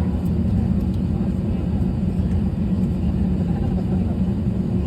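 Steady low rumble of cabin noise inside an Airbus A320, with a constant hum from the engines and airframe.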